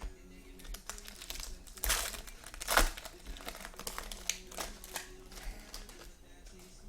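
Trading-card pack wrappers crinkling and tearing as football card packs are ripped open by hand, with the loudest rips about two seconds and three seconds in.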